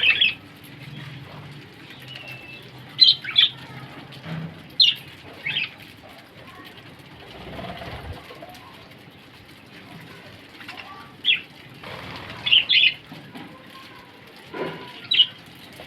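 Australian parrots (budgerigars) giving short, sharp chirps, singly and in quick pairs, at irregular intervals.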